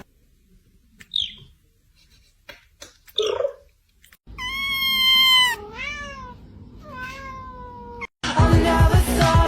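A cat meowing: two short chirps, then a long drawn-out meow and two more meows, the last long and slowly falling in pitch. Loud music cuts in near the end.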